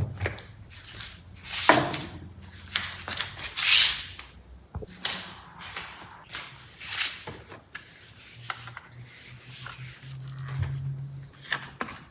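Hands handling plastic steering-wheel parts and their wiring: scattered rubbing and scraping, with a sharp click about five seconds in.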